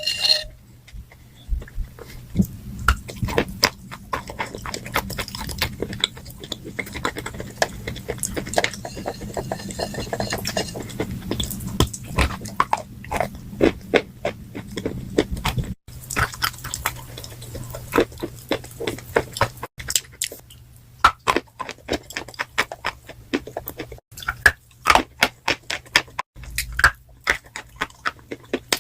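Chalk coated in grey clay paste being bitten and chewed close to the microphone: dense, irregular crackly crunches, briefly pausing a few times, over a faint steady low hum.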